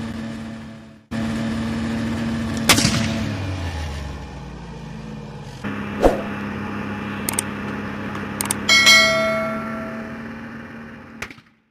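Suzuki hatchback's engine idling with a steady hum, its exhaust blowing into a large balloon held over the tailpipe; the hum breaks off briefly about a second in. Later come a few sharp clicks, then a bright bell-like ding that rings and fades: the subscribe-button sound effect.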